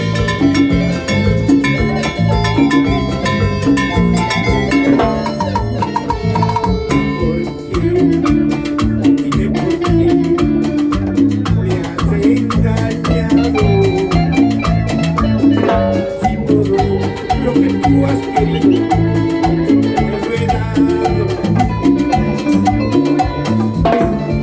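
Live band playing an instrumental passage of Latin dance music, with a repeating bass line under percussion and melody instruments keeping a steady beat.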